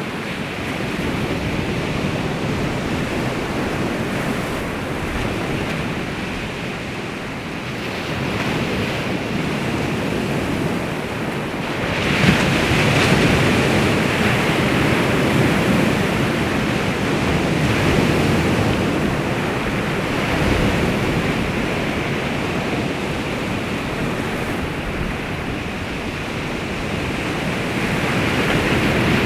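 Baltic Sea waves washing onto the shore in a continuous wash, with a surge of a breaking wave about twelve seconds in. Wind buffets the microphone.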